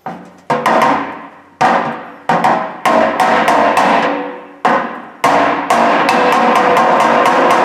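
Body hammer striking the sheet-steel lid of an old Craftsman toolbox to work out dents, each blow ringing on in the metal. The blows come irregularly at first, then quicken to a rapid run of about five a second near the end.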